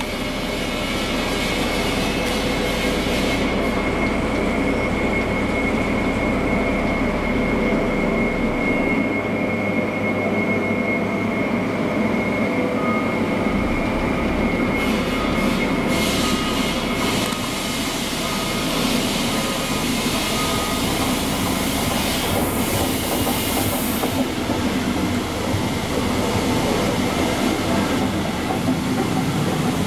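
Deutsche Bahn InterCity train running through a station without stopping, its coaches rolling past close by on the rails. A high steady tone sounds through the first half, and a brighter hiss builds from about halfway as the train draws near.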